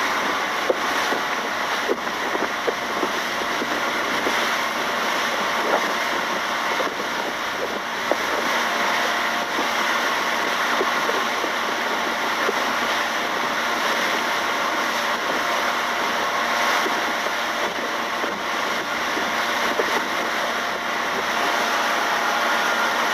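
Steady rush of wind and sea on a phone's microphone aboard a fishing boat, with faint small taps scattered throughout.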